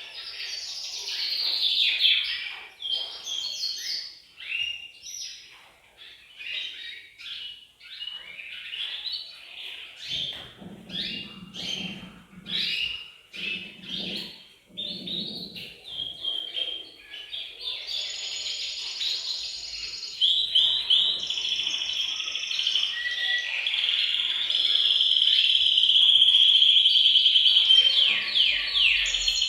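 Several canaries singing together in a dense chorus of quick chirps and trills. In the second half, long rolling trills take over and grow loudest near the end.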